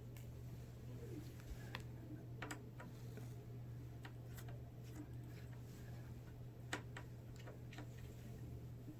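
Faint, irregular small clicks and taps of hands working on a laptop's screen assembly, the sharpest a little before seven seconds in, over a steady low hum.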